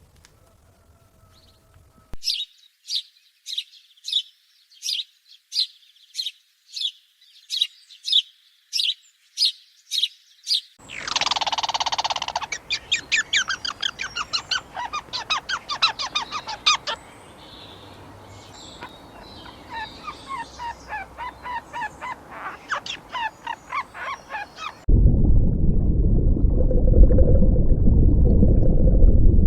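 Bird calls: a series of evenly spaced high calls, about two a second, followed by a busy stretch of rapid chirping. Near the end the chirping stops suddenly and a loud, low rushing noise takes over.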